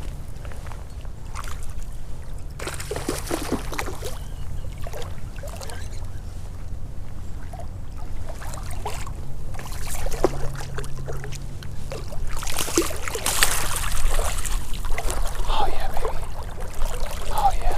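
Creek water splashing and sloshing while a hooked brown trout is fought and brought in. It sounds over a steady low rumble, with the loudest bursts about three seconds in and again around thirteen seconds.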